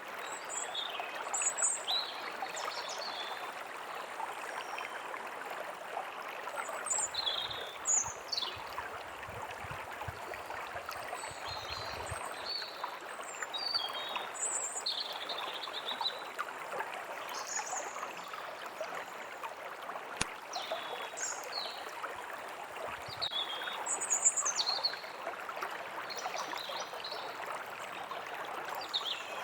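A forest stream running steadily, with small songbirds chirping and whistling now and then over the water.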